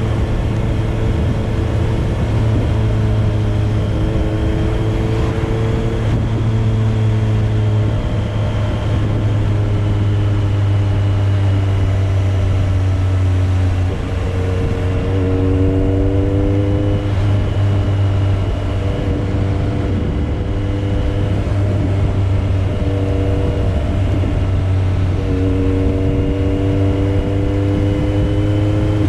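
Motorcycle engine running on the move, its note creeping in pitch and jumping to a new pitch every few seconds as speed and gears change, over a steady low rumble.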